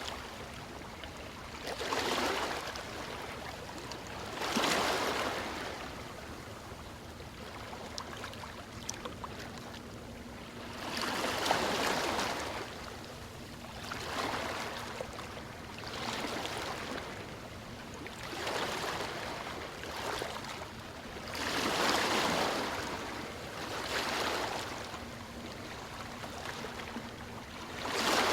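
Ocean waves breaking and washing in, a surge of hiss every two to four seconds over a steady background wash of water.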